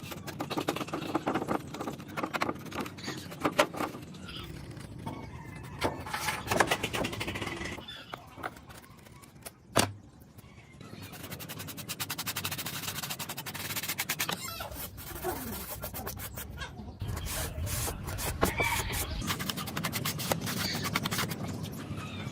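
Irregular clicks, taps and scraping from hands working on a Panasonic stereo radio cassette CD player, with one sharp click about ten seconds in.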